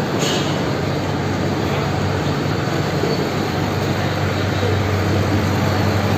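Steady traffic noise with a low engine hum that grows stronger near the end, with voices in the background.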